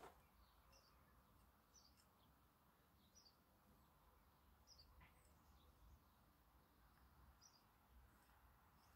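Near silence with a bird's faint, short high chirps repeating every second or two.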